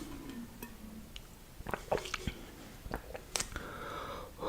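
Close-miked chewing of spicy Korean noodles, with scattered wet mouth clicks and smacks. A short low hum from the eater sounds at the very start.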